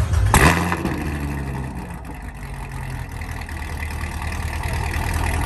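Chevrolet Corvette Z06's V8 cold-starting: it catches with a loud bark just after the start, the revs flare and fall away over the next second or two, then it settles into a steady fast idle.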